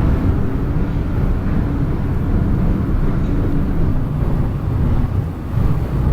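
R160B Siemens subway car running between stations: a loud, steady low rumble of wheels and running gear on the rails, heard from inside the car.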